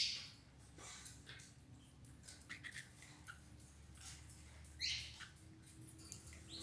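Belgian canaries giving short call notes: a louder call at the start and another about five seconds in, with faint chirps and soft clicks between.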